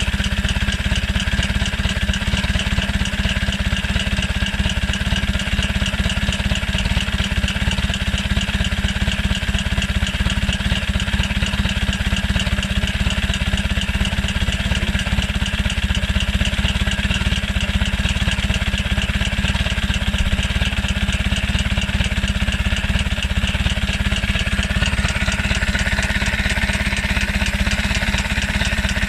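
Nimbus motorcycle's four-cylinder engine idling steadily, with an even, fast run of exhaust pulses.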